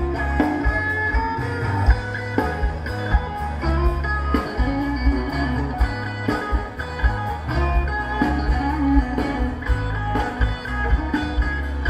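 A recorded rock song playing, led by electric guitar over bass and a steady drum beat.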